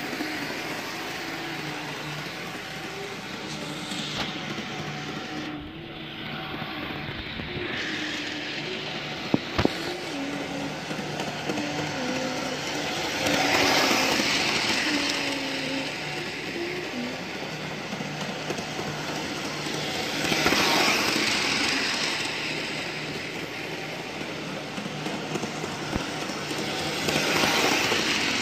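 HO scale model locomotive running around a loop of track: a steady electric motor hum with wheel and rail noise that swells each time the train comes past, about every seven seconds.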